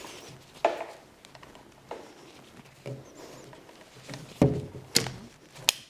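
Irregular knocks and sharp clicks with scraping and rustling between them, the loudest knock about four and a half seconds in and another sharp click near the end.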